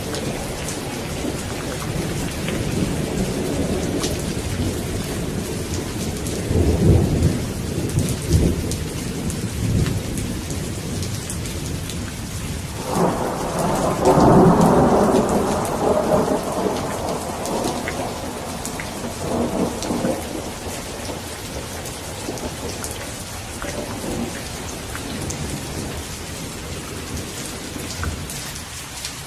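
Steady heavy rain with rolling thunder. A low rumble swells about a quarter of the way in, and a louder crack of thunder breaks around the middle and rumbles away over several seconds.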